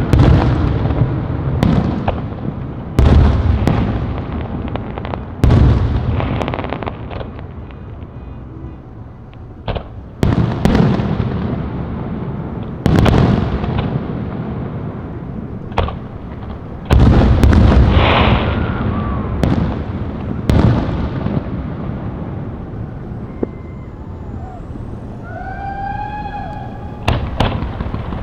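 Fireworks going off in a series of loud booms, one every two to three seconds, each rumbling and echoing away, with crackling in between. Near the end a short wavering pitched sound rises and falls over the explosions.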